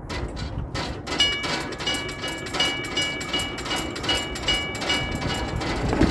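A railroad crossing signal mast is shaken by hand, its hardware rattling in quick clicks. From about a second in, a metallic ringing comes in repeated short pulses as the mast sways, then stops shortly before the end.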